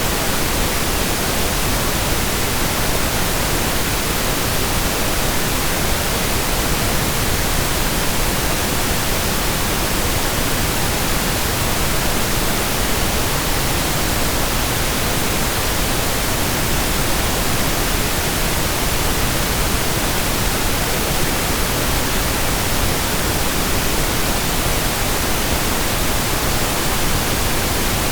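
Steady synthetic pink noise: an even, unchanging hiss spread across all pitches, softer in the highs than white noise.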